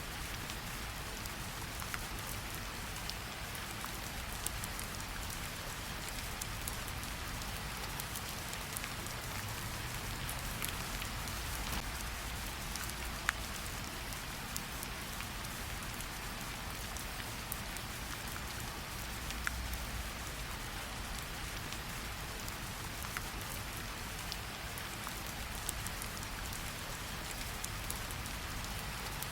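Steady gentle rain pattering on tree leaves, an even hiss with many scattered small drip ticks and a few louder single drops.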